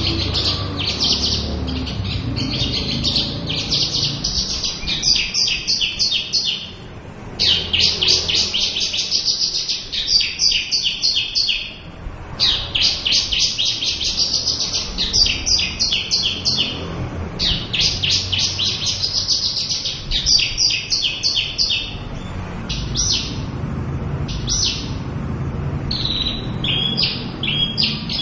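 Javan bush lark singing a full, varied song: long runs of fast, high trilling notes in phrases broken by brief pauses, turning to separate short notes near the end.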